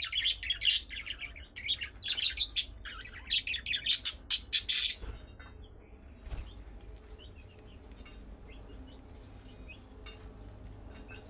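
Budgerigars chirping and chattering in quick high notes, dense and loud for about the first five seconds, then dropping to faint, scattered warbling chirps.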